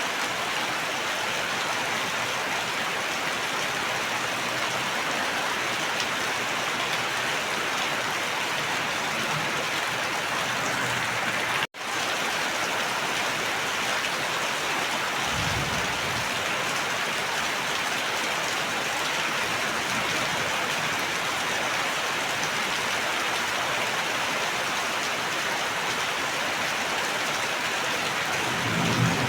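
Steady heavy rain, an even hiss of dense falling drops. It drops out to silence for an instant about twelve seconds in, and a brief low rumble comes a few seconds later.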